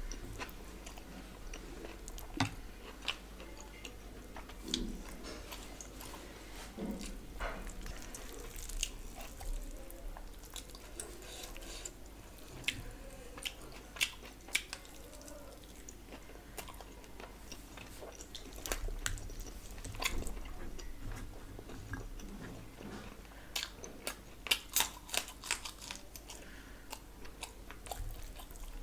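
Close-miked chewing and wet mouth sounds of a person eating rice and fried fish with curry by hand. Scattered short smacks and clicks come through, with a quick run of them late on.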